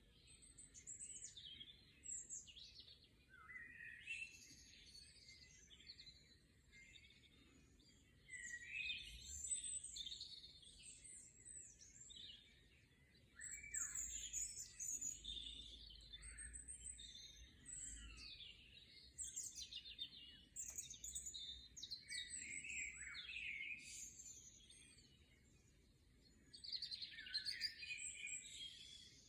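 A chorus of small songbirds singing and chirping, several birds at once. The high chirps, trills and sweeping notes come in bouts, with short lulls between them.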